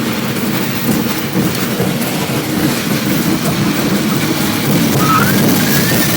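Steady loud rumble of a train in motion, heard from on board.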